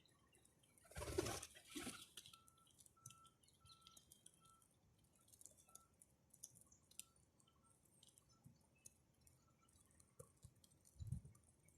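Faint bird calls: a short single note repeated about twice a second, among scattered soft clicks and ticks. A brief rustle about a second in is the loudest sound.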